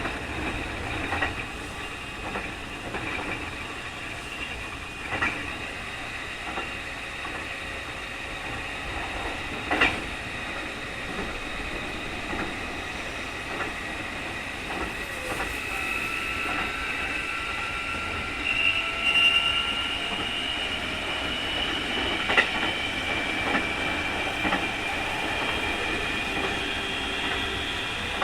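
Keikyu 2000 series electric train running, heard inside the car: a steady high whine, the 'jet sound' this abnormal-noise car is known for, climbs gently in pitch through the second half over the running rumble. Occasional sharp knocks of wheels over rail joints.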